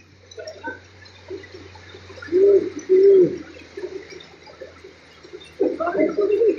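A bird cooing: two short calls about half a second apart, each rising then falling in pitch, over a faint steady low hum.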